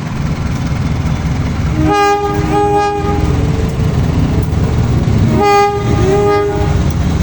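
Diesel locomotive of a freight train running with a steady low rumble, sounding its horn in two pairs of short blasts about three seconds apart.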